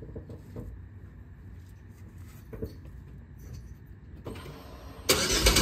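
Low background for about four seconds, then a faint electric whir as the key is turned on and the new fuel pump primes; about five seconds in the 2006 Pontiac G6's starter cranks and the engine fires and runs, its first start after the fuel pump replacement with the fuel lines correctly connected.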